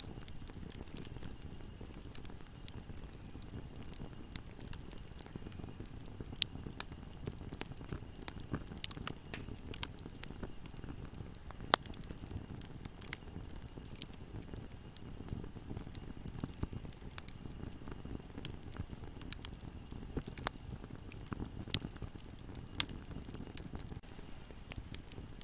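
Bonfire crackling: a steady low rush of burning wood with frequent sharp snaps and pops, two louder pops about six and twelve seconds in.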